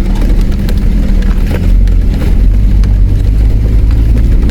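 Nissan Patrol 4WD's engine running steadily at low revs as it crawls down a steep track entry, the engine holding the car back. Scattered knocks and rattles come from the vehicle over the rough ground.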